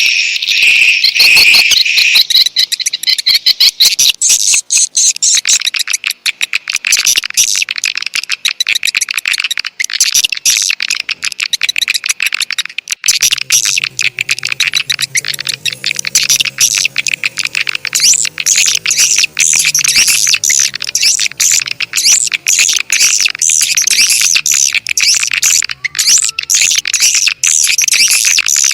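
Swiftlet-calling playback track: rapid, dense swiftlet chirping and twittering, repeated without a break, of the kind played to lure swiftlets into a nesting house. About halfway through, a low steady hum joins underneath.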